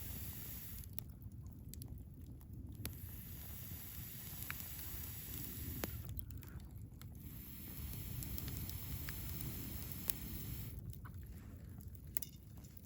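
Wood fire burning in a Picogrill 398 fire stand: a steady low rumble with a few sharp crackles and pops.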